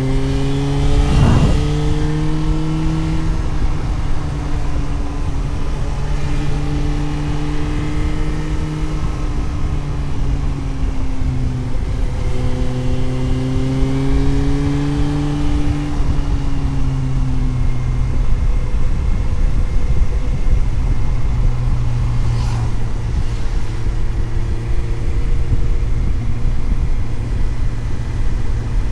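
Suzuki GSX-S750's inline-four engine heard onboard while riding, its pitch climbing and dropping as the rider accelerates and eases off. There is a climb in the first few seconds, another rise about twelve to sixteen seconds in, then a steadier run, all over a constant low road and wind rumble.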